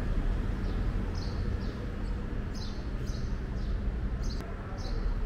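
Small birds chirping: short, high, falling chirps repeated every half second or so, over a steady low rumble.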